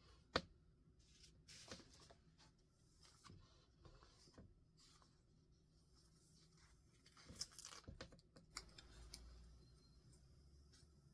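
Quiet handling of paper and stationery on a desk while decorating a journal page: soft rustles and light clicks, with one sharp click about a third of a second in and a busier patch of rustling and clicks around seven to eight seconds in.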